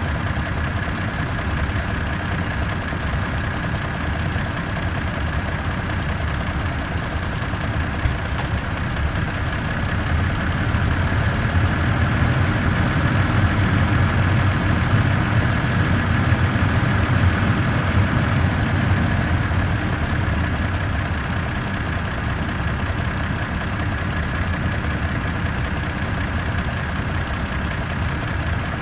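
Toyota Tacoma TRD Off-Road running steadily with a low, helicopter-like throbbing, a noise the owner finds weird. It swells a little louder about a third of the way in, then settles back.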